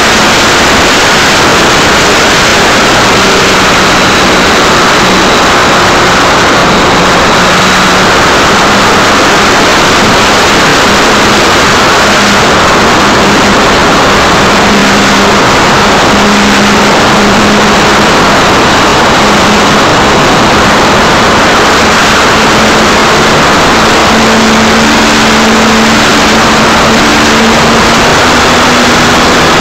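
Electric motor and propeller of an Art-Tech Cessna 182 RC model plane, heard from a camera on its nose, buried in loud, steady wind rush. A low motor hum runs underneath and shifts slightly in pitch with the throttle.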